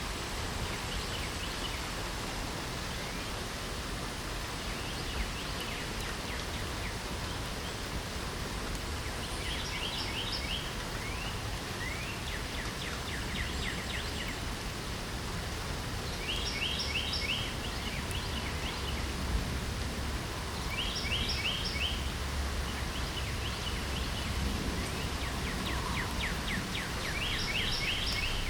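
Steady rain hiss with a low rumble underneath. From about a third of the way in, a songbird repeats short, quick phrases of high notes every few seconds.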